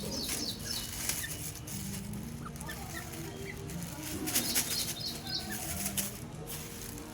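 Grey francolins flapping their wings in a few short flurries, the loudest a little past the middle, with brief high chirps among the flaps.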